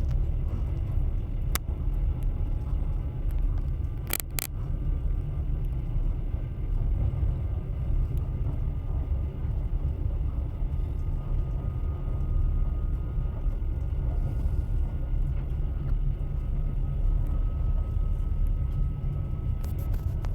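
Train running along the track: a steady low rumble of wheels on rails, with a sharp click about a second and a half in and a couple more around four seconds.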